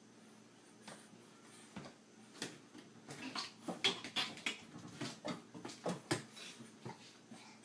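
A quick, irregular series of light clicks and knocks, starting about a second in, thickest in the middle and thinning out near the end.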